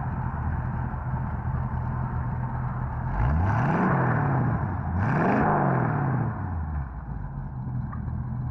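1951 Mercury convertible's 350 small-block Chevy V8 idling through twin tailpipes. It is revved twice, about three seconds in and again about five seconds in, each rev rising and then falling back to idle.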